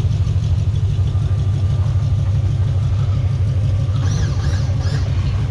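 Lowrider car's engine idling with a steady low rumble.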